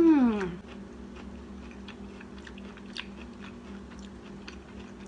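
A woman chewing a mouthful of buttery stir-fried corn, with faint soft clicks and crunches. It opens with a short 'mmm' of pleasure that falls in pitch and ends about half a second in, over a low steady hum.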